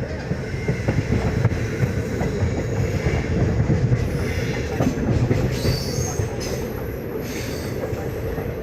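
Indian Railways ICF passenger coach running at about 110 km/h: a steady rumble of wheels on rail with rapid clicking, and a high wheel squeal that comes in about five seconds in.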